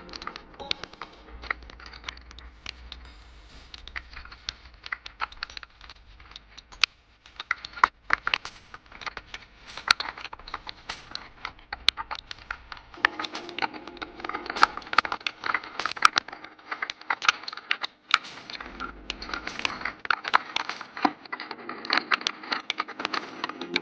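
Dense, irregular crackling and tapping of heavy rain striking the microphone, growing louder about halfway through.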